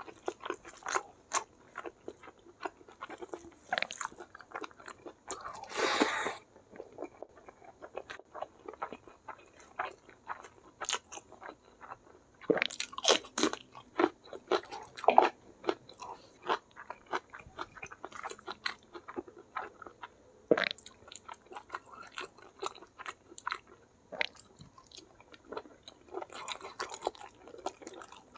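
Close-miked chewing and crunching of a hand-eaten meal of rice, stewed jengkol, fried chicken and raw vegetables, with many short wet mouth clicks. There is one longer breathy noise about six seconds in.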